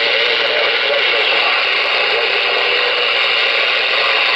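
Galaxy DX-98VHP CB radio's receiver hissing with steady band static after a call on channel 19, a faint mumbled voice buried in the noise during the first second or two. The noise stands at about S9 ('9 pounds') on the meter, drowning out the reply.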